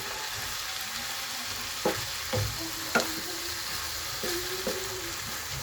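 Chopped papaya, carrot and mung dal sizzling in a pan as they are stirred, with a steady frying hiss. A spatula knocks against the pan a few times, about two and three seconds in.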